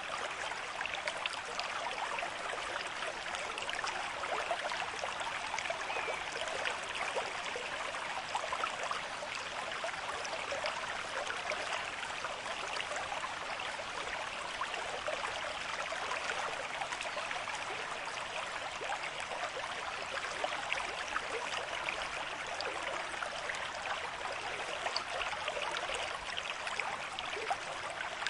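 A shallow river stream with moderate flow, water running and splashing over stones in a steady rush with fine gurgles throughout.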